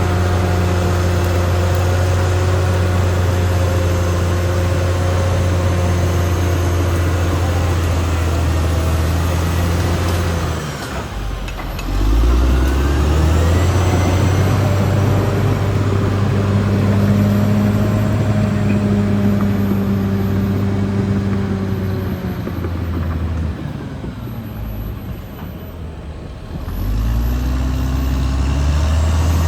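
Caterpillar D6R XL bulldozer's diesel engine running steadily. Its note drops and climbs back about eleven seconds in, then sags for a few seconds near the end before rising again.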